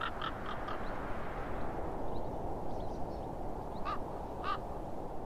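Birds calling outdoors: a quick run of short harsh calls at the start, then two single calls about four and four and a half seconds in, over a steady low background rumble.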